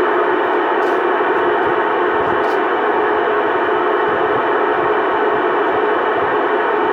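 Radio receiver putting out steady static hiss on an open channel, with a few faint steady tones in it and no voice coming through.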